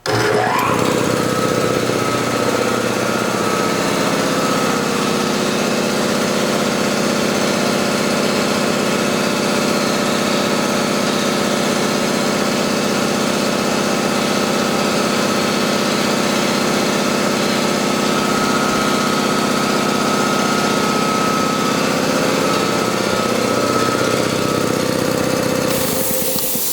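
Quincy QT-5 two-stage piston air compressor, driven by a 5 hp electric motor, starting up and then running steadily. Near the end a high hiss of escaping air comes in.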